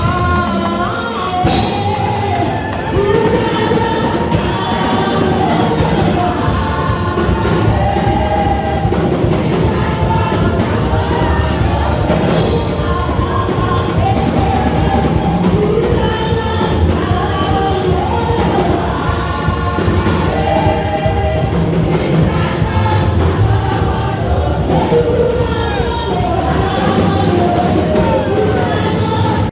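Church praise and worship music: voices singing a melody over a band with drums.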